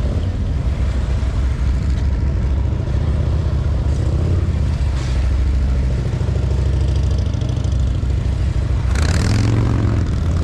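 Motorcycle engine running at low revs with small changes in throttle, as for slow, tight riding through a cone pattern. A brief hissing burst comes near the end.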